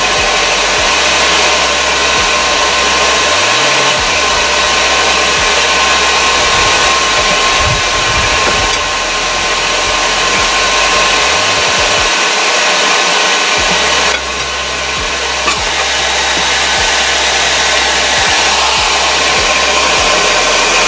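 Blacksmith's forge running with its air blower, a loud, steady rushing of forced air through the fire while steel stock heats in it.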